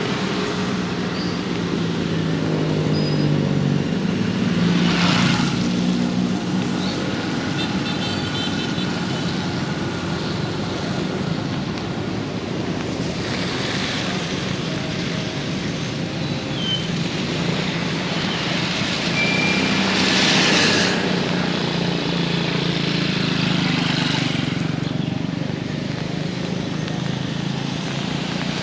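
Heavy rain falling steadily, with motor vehicles passing on a wet road: engines hum under the rain, and tyres hiss through water in four brief swells.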